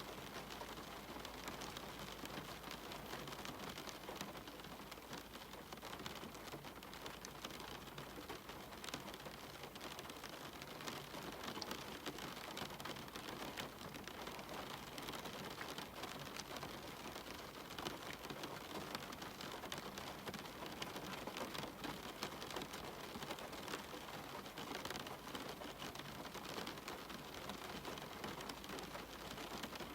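Steady rain with a dense patter of individual drops ticking on surfaces.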